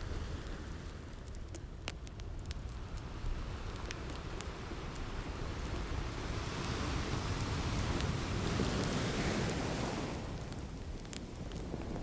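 Ocean surf washing in steadily, one wave swelling up about halfway through and easing off near the end, with a wood fire crackling in scattered sharp pops throughout.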